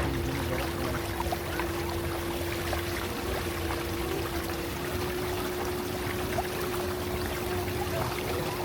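A tour boat's motor running with a steady hum, while water splashes and trickles along the hull.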